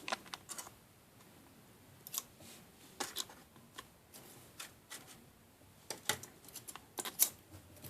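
Scattered light clicks and taps of small plastic kit pieces being handled on a table, a dozen or so irregular ticks over several seconds with quiet between, a quick cluster near the end.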